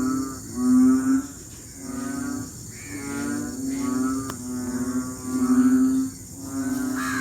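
A chorus of frogs giving their rainy-season mating calls: repeated low, drawn-out calls about half a second each, from several frogs at slightly different pitches, overlapping at roughly one a second.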